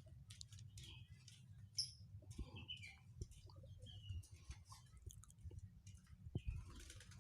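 Faint, scattered short bird chirps and small clicks over a low steady hum.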